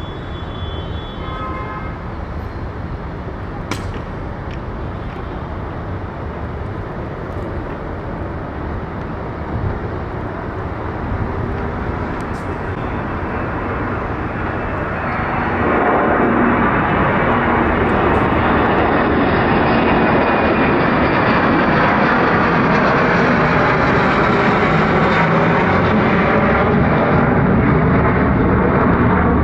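Jet airliner engines: a steady rushing noise that swells sharply about halfway through and then holds loud.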